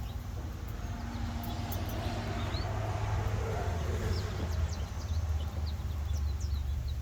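Wind buffeting the microphone as a steady low rumble, with small birds chirping faintly and repeatedly in the background.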